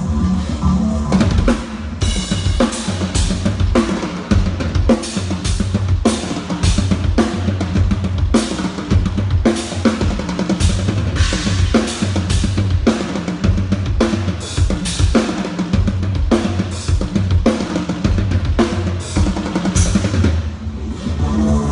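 Drum kit played in a steady rhythm with a band: a regular beat of drum and cymbal strikes over a sustained bass line.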